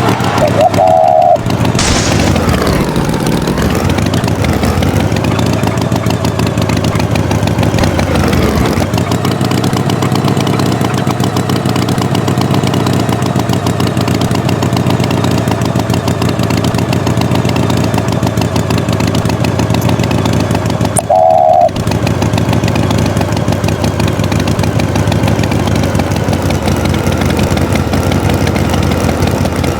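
Tractor engine running steadily, its pitch dipping and recovering twice in the first nine seconds. A short, clear beep-like tone cuts in about a second in and again about two-thirds of the way through.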